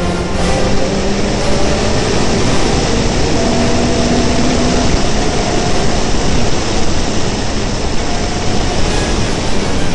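Rally car's engine running hard at speed, heard from inside the car, with steady road noise.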